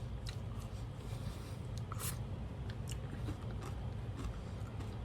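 A person quietly eating a Dairy Queen Blizzard: faint scattered clicks and scrapes of the spoon and cup and chewing of the crunch pieces, over a steady low hum.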